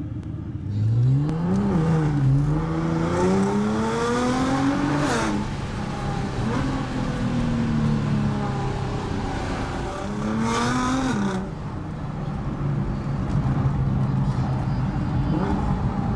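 Nissan GT-R R35's twin-turbo V6 under hard acceleration, heard from inside the car. The engine pitch climbs steadily for about four seconds and then drops suddenly. It runs lower for a few seconds, climbs again to about eleven seconds in, and drops back to steady running.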